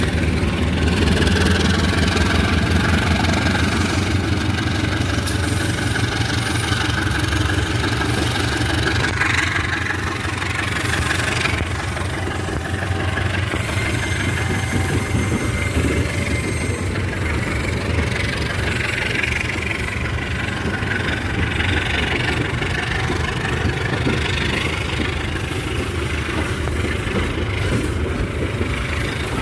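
Diesel locomotive engine running steadily with a low, even throb.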